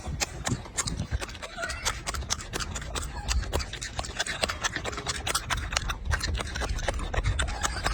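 A monkey crunching and chewing raw carrot: rapid, irregular crisp clicks, several a second, over a low rumble.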